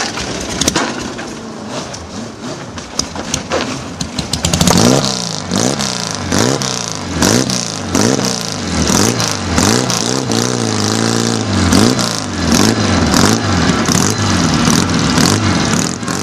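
Racing sidecar outfit being push-started: about four and a half seconds in its engine catches and is blipped again and again, the revs rising and falling roughly every three-quarters of a second.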